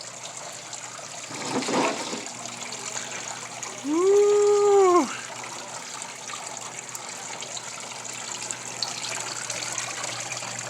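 Water trickling and pouring steadily from a small pump-fed DIY waterfall water table, with a brief louder burst of noise about one and a half seconds in. About four seconds in, a single held pitched note lasts about a second, louder than the water.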